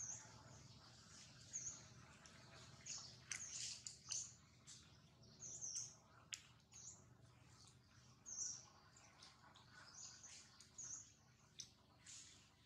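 Faint outdoor birdsong: short, high-pitched bird chirps repeating about once a second, with a few soft clicks between them.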